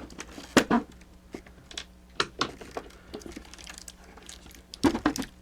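Scattered clicks and knocks of hard plastic parts being handled as a mechanical animated figure is unscrewed and taken apart, the sharpest knocks about half a second in and near the end.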